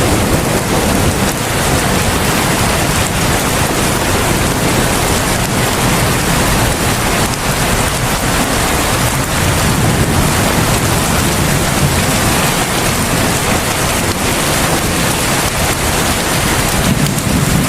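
Heavy rain falling steadily: a dense, even hiss with a low rumble beneath it that swells again near the end.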